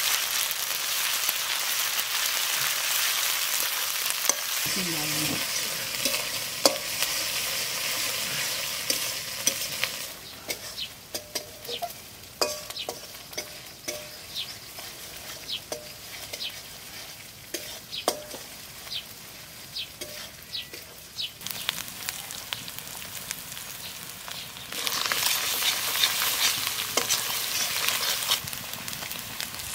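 Onions and spice paste frying in hot oil in a metal wok, sizzling, while a metal spatula stirs and scrapes against the pan. The sizzle is loud for the first ten seconds, drops to a quieter stretch of scattered clicks and scrapes, and comes back strongly near the end.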